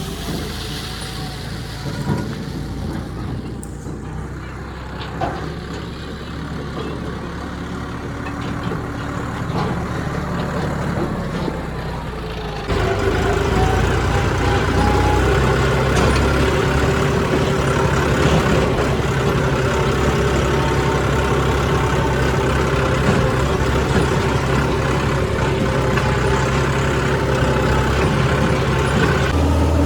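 Diesel engine of heavy farm machinery running steadily. About twelve seconds in it gets suddenly louder and stays that way.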